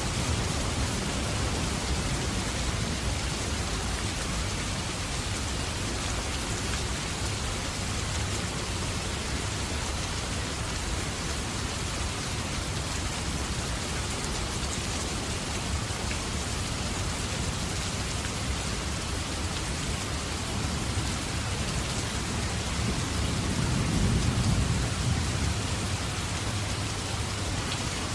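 Steady rain falling, with a low rumble of thunder swelling and fading near the end.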